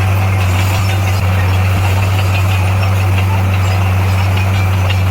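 Heavy diesel engine of earthmoving equipment running steadily with a deep, even drone.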